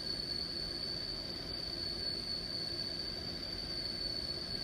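Heavy machine tool running steadily, a constant machinery hum under a high, unchanging whine.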